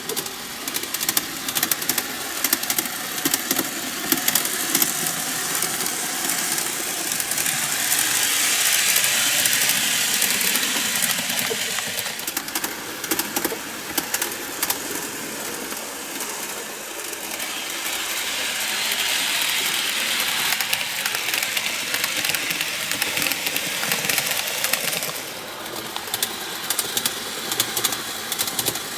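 N gauge model train running on its track: the small motor of the freshly serviced power car whirring, with fine rapid clicking of the wheels over the rails, growing louder twice as the train passes close.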